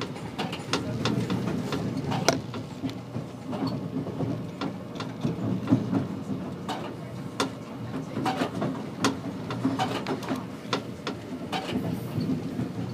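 Passenger train rolling slowly over switches and rail joints: a steady low rumble with irregular clicks and knocks as the wheels cross the points.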